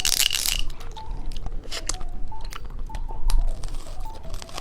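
Close-miked chewing and wet mouth sounds of a person eating candy, with many small clicks. A short rustling burst comes right at the start.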